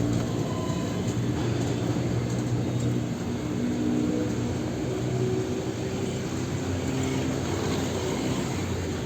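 Street traffic: vehicle engines running steadily over a constant traffic hum.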